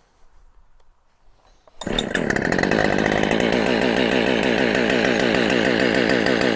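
Husqvarna 572XP two-stroke chainsaw engine comes in abruptly about two seconds in and runs loud at a steady speed.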